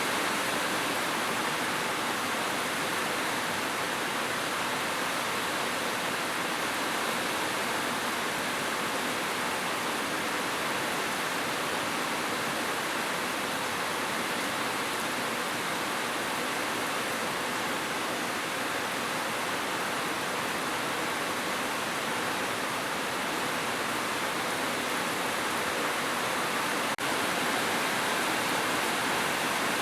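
Heavy rain falling steadily on a roof, an even, unbroken hiss with no thunder.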